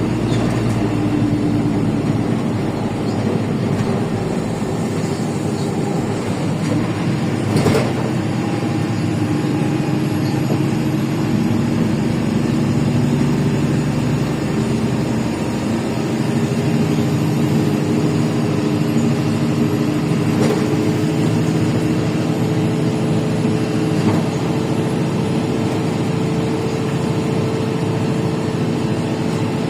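LiAZ 5292.65 city bus running under way, heard from inside the bus: the Yuchai diesel's engine note steps up and down in pitch several times over steady road noise, with a few sharp knocks, the loudest about eight seconds in.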